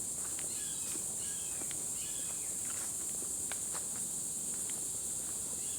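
A steady high-pitched insect drone, with a run of faint short repeated calls that sound like a hawk in the first half, and scattered footstep crunches on the trail.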